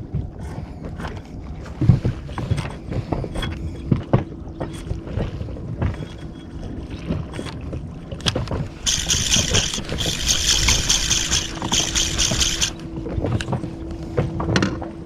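Knocks and handling noise on a small inflatable boat over a low rumble of water and wind. From about nine seconds in comes a loud, rapid, high-pitched buzzing rattle lasting about four seconds.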